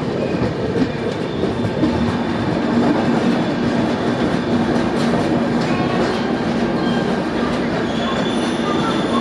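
Passenger train running on the rails: steady, dense noise from the wheels and track, with a steady low hum setting in about two seconds in and a few brief faint squeals.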